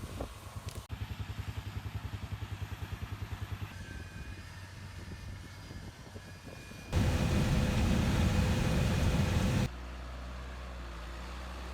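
Farm machinery running in short back-to-back clips: a fast pulsing engine, then a loud even rushing noise for a few seconds, then a steady low hum.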